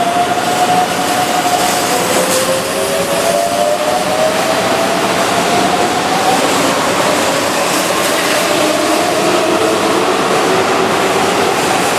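Keihan 7200-series electric train (set 7203) pulling away: its traction motors and inverter give whining tones that rise slowly in pitch over a steady rumble of running noise, the sound of the train accelerating.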